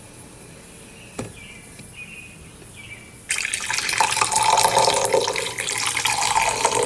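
A tap is turned on about three seconds in and water runs steadily, splashing into a sink. Before it there is a single click and a few faint bird chirps.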